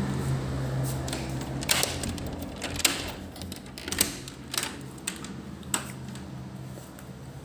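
A series of sharp, irregular clicks and clattering knocks, about six over four seconds, over a steady low hum.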